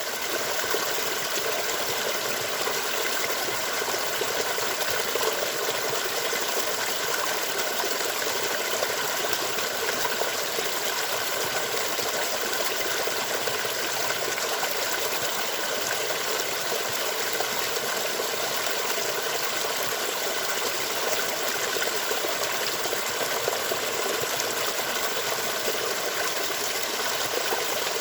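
Water running steadily down a small mountain ditch stream, an even, continuous rushing that does not change.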